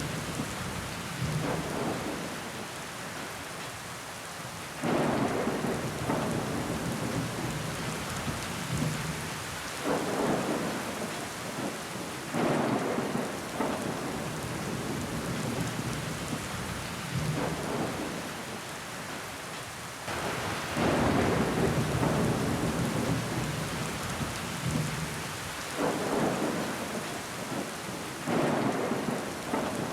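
Steady rain falling on a window pane, with louder swells of noise every few seconds.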